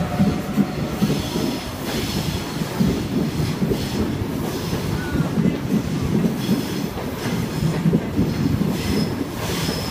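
Sydney Trains Waratah double-deck electric train departing and rolling past close by: a steady rumble of wheels on rail, with faint high tones above it.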